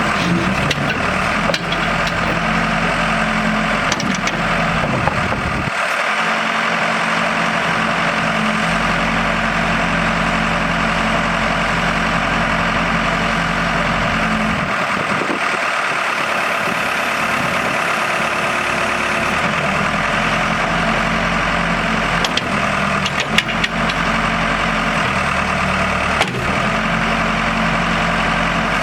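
Diesel engine of a 1998 Case 580 Super L loader backhoe running steadily, its low hum shifting and dropping out a few times. A few sharp knocks near the end.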